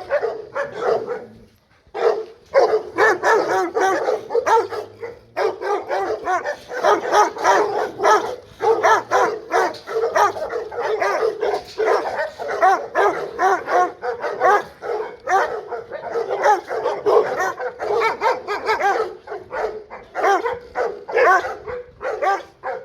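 Dogs barking continuously in rapid short barks, several a second, with a brief pause about two seconds in.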